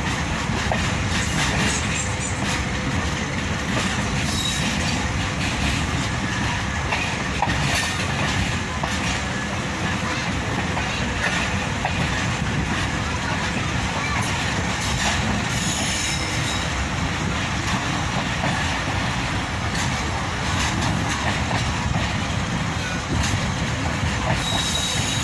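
Pakistan Express passenger train running on the track: a steady rumble of wheels on rails, with a few scattered clicks.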